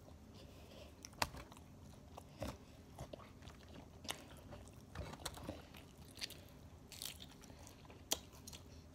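A person biting and chewing food, with soft chewing broken by short, crisp crunches about once a second.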